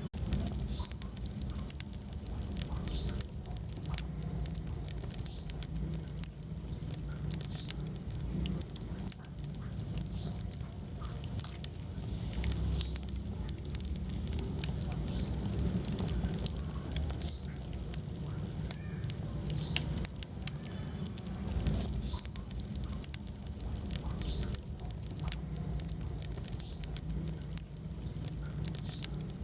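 Wood fire burning in a fireplace, crackling with many small sharp pops over a low steady rumble of the flames, with short faint squeaks now and then.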